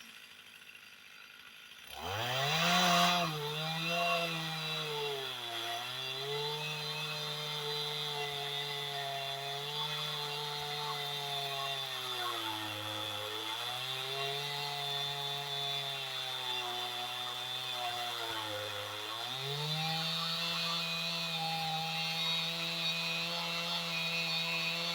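A chainsaw on a chainsaw mill starts about two seconds in, revs up and runs at high speed. Its pitch sags three times, typical of the saw being loaded in the cut, and then holds steady and high near the end.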